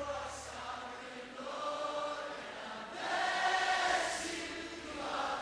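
Choral music: voices holding long, sustained notes that swell louder about three seconds in.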